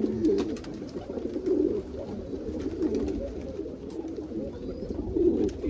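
Domestic pigeons cooing in their loft: several low coos overlapping continuously.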